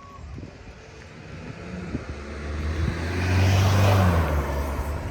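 A road vehicle passing close by: engine hum and road noise swell to a peak about four seconds in, then the pitch drops a little as it fades.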